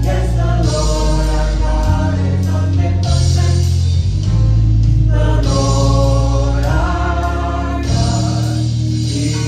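Gospel choir singing a worship song with instrumental backing and a strong, steady bass line; the voices hold long notes rather than clear words.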